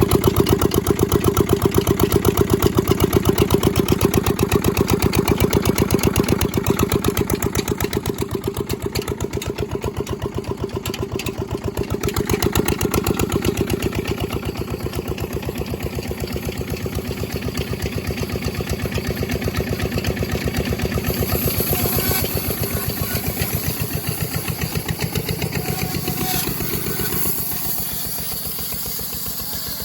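Diesel engine running at a steady speed with an even, rapid knocking beat, just after a cold start. Near the end it grows quieter and the beat fades.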